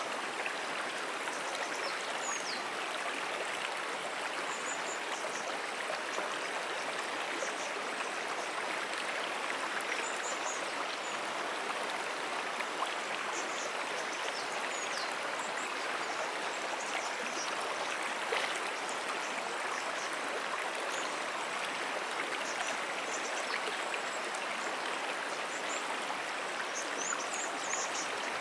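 Moonan Brook, a small perennial stream, flowing steadily: an even trickling and burbling of water over its bed. Faint short high chirps come and go above it.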